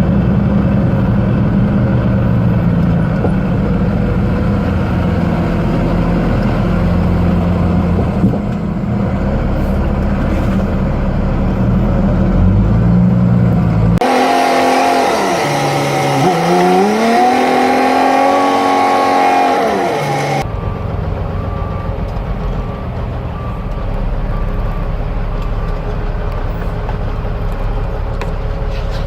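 The Cat C15 diesel engine of a 2001 Freightliner dump truck running while driving, its pitch stepping as it changes speed. About 14 s in, the engine sound cuts off abruptly. For about six seconds a different pitched sound dips and then climbs, and then the engine sound returns just as abruptly.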